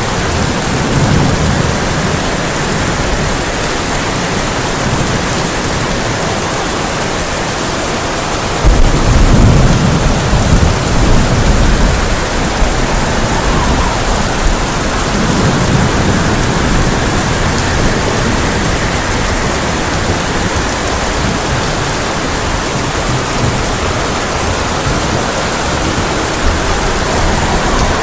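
Heavy rain drumming steadily on a tin roof, with rolls of thunder rumbling underneath; the loudest roll starts suddenly about a third of the way in and lasts a few seconds.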